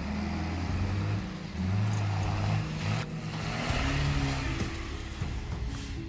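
A heavy vehicle's engine running, mixed with background music.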